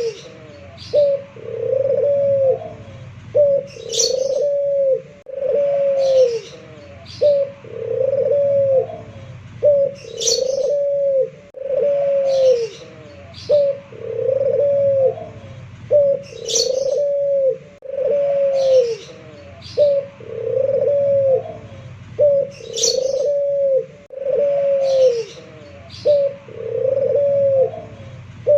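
Local puter pelung domestic turtle dove cooing in a steady, repeating phrase of a short note followed by long, arched coos, the phrase coming round about every six seconds. Brief high chirps from another small bird fall between the phrases.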